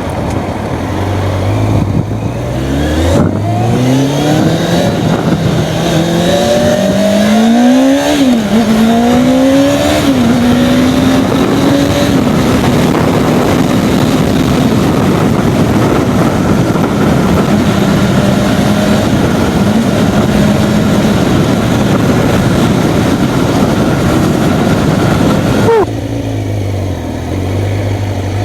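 A Kawasaki ZZR600's inline four-cylinder engine accelerating through the gears. Its pitch climbs and dips back at each upshift, then holds steady at cruising speed under wind noise on the microphone. The throttle closes near the end and the engine note falls away.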